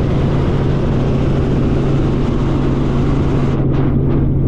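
Helicopter engine and rotor noise heard inside the cabin: a loud, steady drone with a constant low hum under it.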